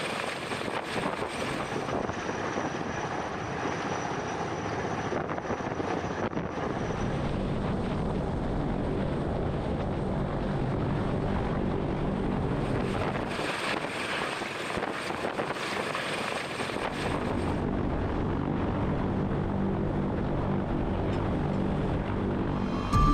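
Large military transport aircraft engines running: a steady noisy drone with a low hum beneath it, changing in character abruptly a few times.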